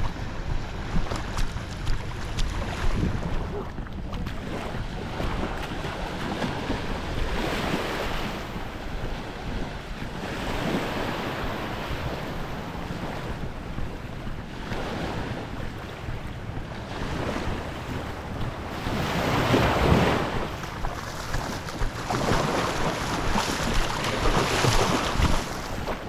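Small waves washing onto the beach, one swell every four or five seconds, the strongest about two-thirds of the way through, with wind rumbling on the microphone.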